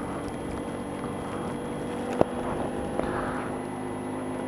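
2007 Honda Ruckus scooter's 49cc single-cylinder four-stroke engine running steadily at a slow riding speed, with a short sharp knock about two seconds in.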